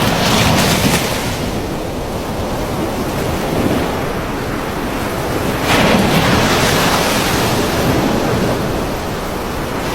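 Storm wind rushing across the microphone in a steady roar of noise, swelling in two strong gusts: one at the start and one about six seconds in.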